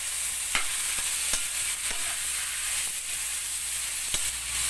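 Pork cubes with onion, garlic and ginger sizzling in a stainless steel pan while a metal spoon stirs them, with a steady hiss and a few sharp clicks and scrapes of the spoon against the pan.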